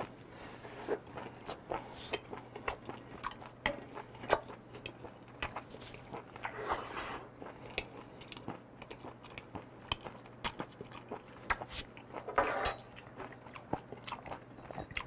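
Close-miked chewing of raw chopped octopus and raw beef (beef nakji tangtangi), heard as many short, wet mouth clicks and smacks.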